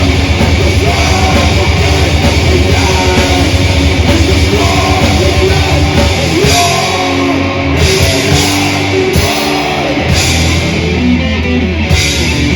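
Death/thrash metal band playing live: heavy distorted guitars, bass and drums, with repeated cymbal crashes in the second half.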